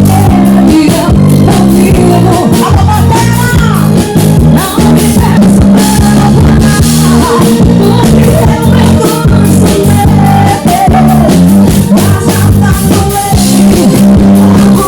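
Arrocha band playing live through a loud sound system: an instrumental passage with a heavy bass line, a steady drum beat and a sliding lead melody, between the sung verses.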